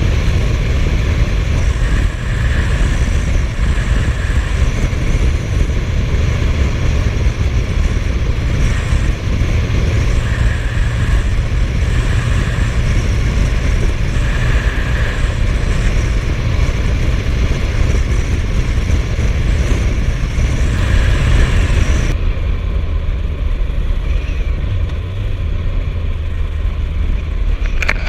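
Suzuki GSF1250S Bandit motorcycle riding at road speed: the inline-four engine running under a heavy, steady wind rumble on the microphone. About three-quarters of the way through, the higher hiss cuts off suddenly while the low rumble carries on.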